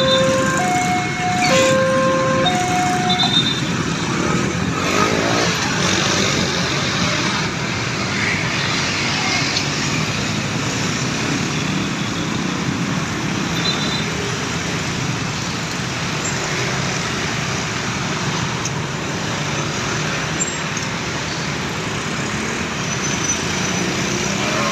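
A railroad crossing's electronic warning alarm sounds a two-tone alternating chime for about the first three seconds and then stops. Steady road traffic noise follows.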